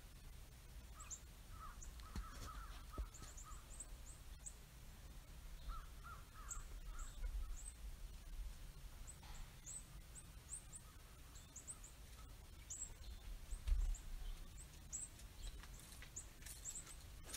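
Birds calling outdoors: a steady run of short, high chip notes, with clusters of lower calls about two seconds in and again about six seconds in. A brief low bump comes about three-quarters of the way through.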